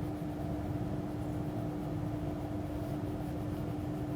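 Steady background hum with one constant pitched tone over a low rumble, unchanging throughout.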